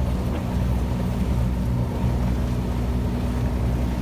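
A sailboat's auxiliary engine running steadily while the boat motors under power, a constant low hum of several even tones.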